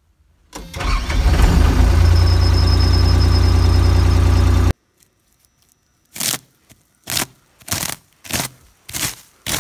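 An engine starts about half a second in, runs steadily and loudly, and then cuts off abruptly. In the second half, a series of crunching steps comes at a walking pace, about one every two-thirds of a second.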